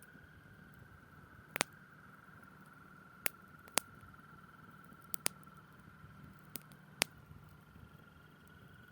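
A chorus of frogs trilling steadily, with a campfire's wood popping in seven sharp crackles over it.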